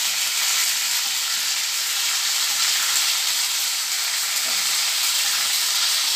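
Sliced onions, fried golden brown, sizzling in hot oil in a nonstick pan while being stirred with a spatula: a steady frying hiss.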